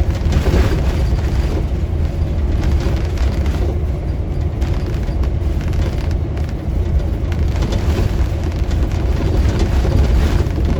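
Steady low rumble of a moving car: road and wind noise, with no distinct events.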